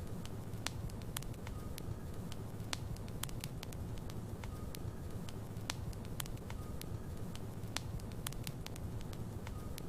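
Logs burning in a fireplace, crackling with frequent sharp, irregular pops over a steady low rumble of the flames.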